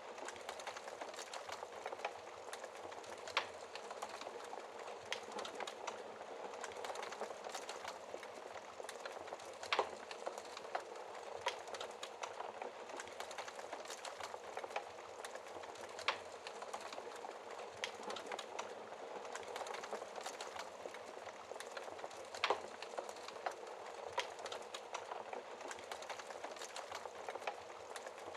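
Wood fire crackling: a steady hiss of burning with frequent small crackles and a few louder pops, roughly every six seconds.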